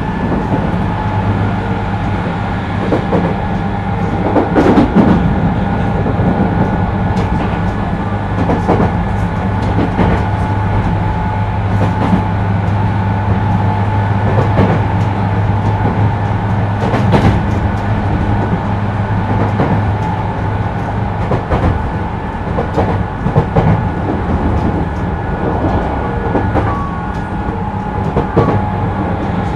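Tokyu 2000 series commuter train heard from inside the car while running at a steady speed. A steady motor and equipment hum sits under irregular clicks and knocks from the wheels on the rails.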